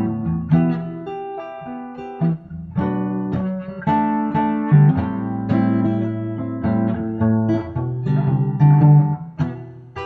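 Acoustic guitar played solo: a run of plucked notes and strummed chords ringing out between sung lines of a song.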